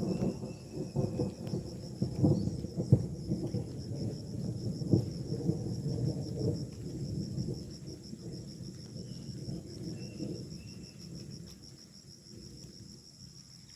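An uneven low rumble with scattered crackles, loudest in the first half and fading over the last few seconds. Under it, a steady pulsing high trill of forest insects.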